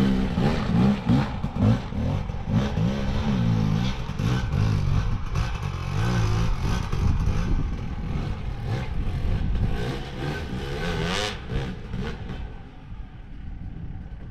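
Dirt bike engine revving up and down over rough trail, with repeated knocks and rattles from the bike. It gets quieter near the end.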